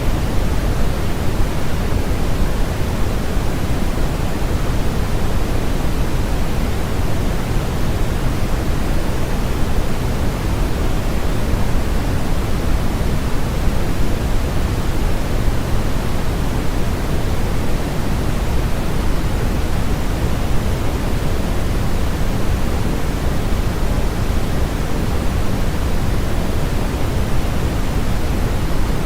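Steady, unchanging synthetic noise played as a sleep aid: an even hiss with more weight in the low end than the top, with no pattern or break.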